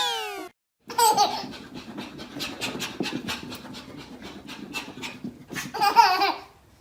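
A dog panting quickly, about four breaths a second, while a baby squeals and laughs about a second in and again near the end. A short falling swoop is heard at the very start.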